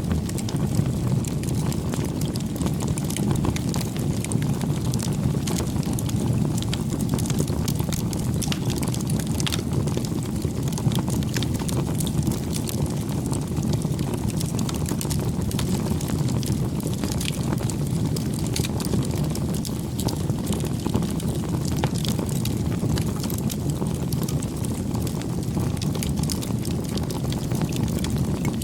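Campfire burning: a steady low rush of flame with frequent small, sharp crackles and pops scattered throughout.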